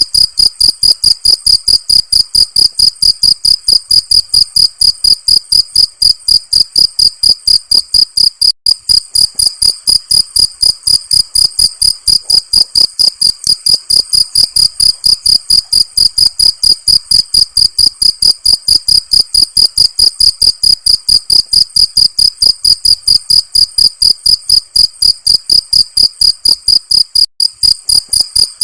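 Cricket chirping loudly and steadily: one high-pitched chirp repeated evenly, about three times a second.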